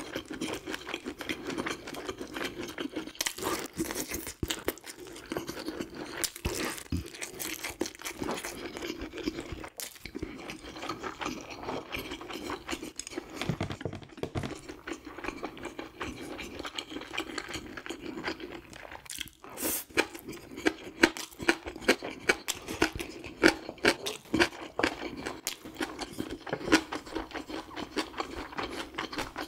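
Close-miked chewing and crunching of food in the mouth: irregular wet clicks and crackles, growing sharper and louder about two-thirds of the way in.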